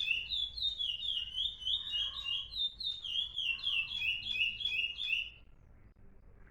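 Songbird singing a fast run of repeated whistled notes that slide down in pitch, stopping abruptly about five seconds in.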